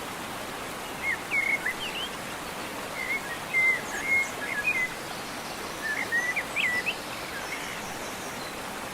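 Small birds chirping in short, quick rising and falling notes, in three bouts, over a steady rushing noise of river water.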